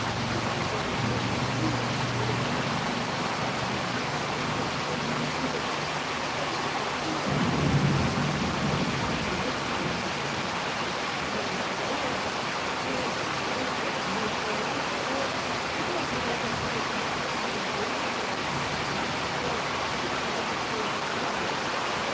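Steady rain and wind noise of a storm, with a brief low rumble about eight seconds in.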